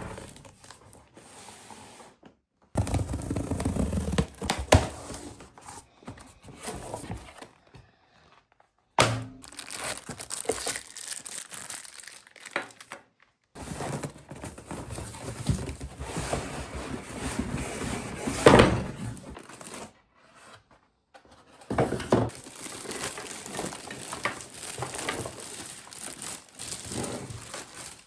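Plastic wrapping crinkling and tearing, with scattered thunks, as packaging is handled. It comes in separate stretches that start and stop abruptly, with brief silent gaps between them.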